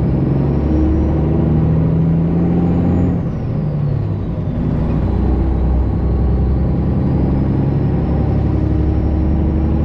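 Straight-piped Detroit Diesel 12.7-litre inline-six in a Freightliner Classic XL semi truck pulling on the road, heard from inside the cab. The engine drones steadily with a faint high whistle rising over it, eases off about three seconds in as the whistle falls, then pulls again.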